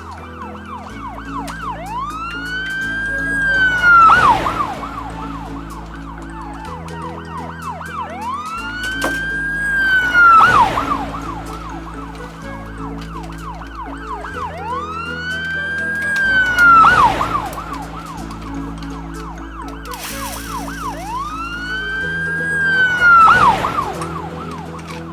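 Background music with a police-siren effect laid into it: a fast warbling siren throughout. About every six and a half seconds a slower siren whoop rises and falls and ends in a loud whoosh, four times.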